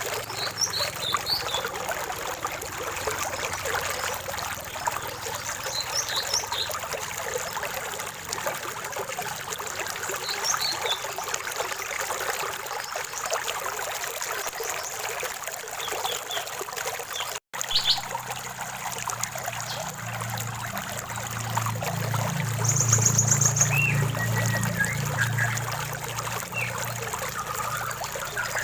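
Small stream trickling and splashing steadily, with scattered short, high bird chirps and one quick high trill. The sound cuts out for an instant about two-thirds of the way through, and a low rumble rises underneath in the second half.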